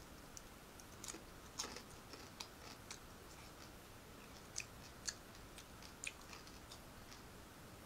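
Faint chewing with scattered small mouth clicks and light crunches as a person eats fried food.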